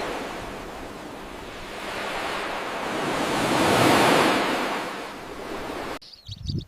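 Surf washing in, a broad rush that swells to a peak and falls back, then cuts off abruptly near the end. Faint bird chirps follow the cut.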